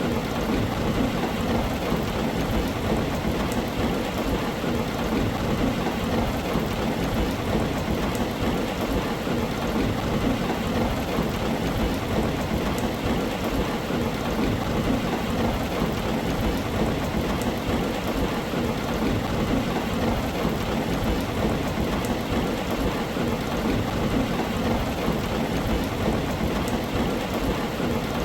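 Heavy rain drumming steadily on a tin roof, a dense, even patter.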